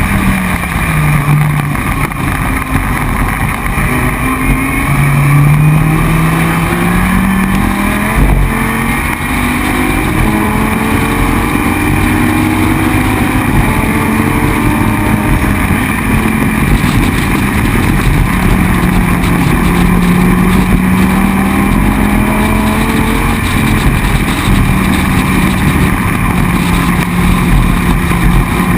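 Dodge Viper GT3's V10 racing engine at full race pace, loud and continuous: the revs drop briefly at the start as it brakes, climb through several gear changes, then hold high and rise slowly near the end.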